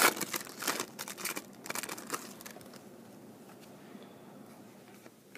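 Trading-card pack wrapper crinkling as it is torn open and handled, a quick run of crackles over the first two and a half seconds or so.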